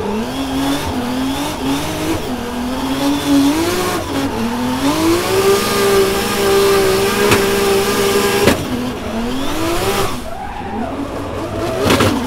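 Single-turbo 2JZ-GTE inline-six with nitrous in a drift car, heard from inside the cabin, revving up and down through a drift. The revs climb in steps, dip about four seconds in, then hold high for several seconds, with sharp drops at about eight and a half seconds and again near ten. Tyre squeal runs under the engine.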